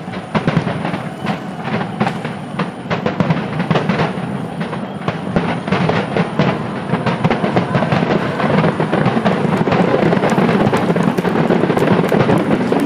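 Aerial fireworks going off in a rapid barrage: many overlapping bangs and crackles over a continuous rumble, growing denser and louder toward the end.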